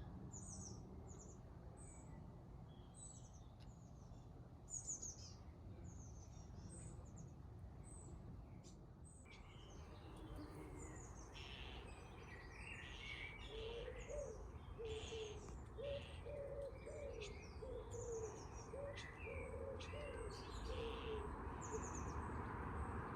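Garden birdsong: short, high chirping phrases repeat throughout. About halfway through, a bird's low cooing joins in with a run of repeated notes for several seconds. A steady background hiss grows louder in the second half, and there is a brief knock about five seconds in.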